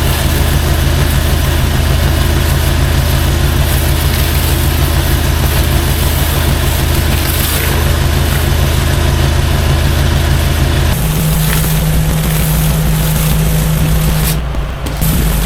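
An engine-driven pressure washer running steadily under the hiss of its spray. About eleven seconds in, the engine note shifts higher, and near the end it dips briefly.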